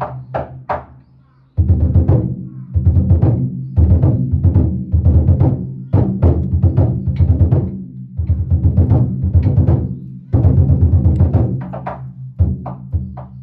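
Danjiri hayashi: a large taiko drum beating under small hand-struck gongs (kane) in a fast, driving rhythm. The playing drops away briefly just after the start, then comes back in at full strength about a second and a half in and runs on without a break.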